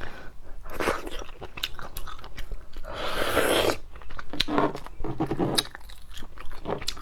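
Close-up cracking, biting and chewing of a cooked crab's hard shell and legs: repeated sharp snaps and crunches, with a longer rasping crunch about three seconds in.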